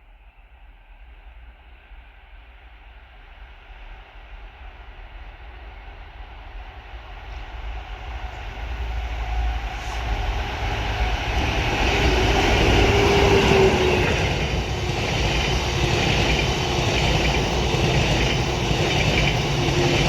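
Train approaching, growing from faint to loud over about twelve seconds, then running past steadily loud.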